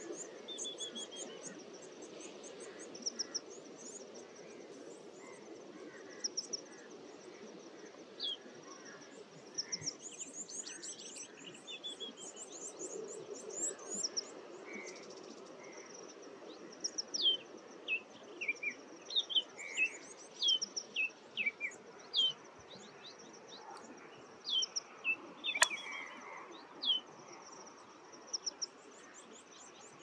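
Wild birds chirping and calling over steady outdoor background noise, with high chirps and trills throughout. In the second half comes a run of short, quick notes that slide downward. One sharp click comes near the end.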